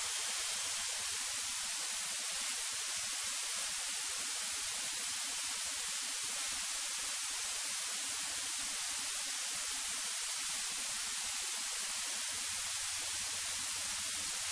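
Steady electronic hiss of the cockpit intercom audio feed, even and unchanging, with no engine or other sound coming through.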